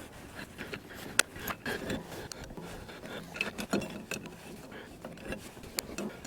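Irregular metal clicks and clinks of a wrench tightening a hydraulic hose fitting nut on a log splitter.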